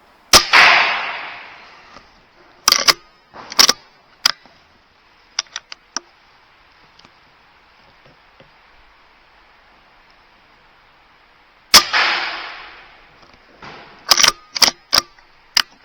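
Two air rifle shots about eleven seconds apart, each a sharp crack with a tail that fades over about a second and a half. A few sharp clicks follow each shot.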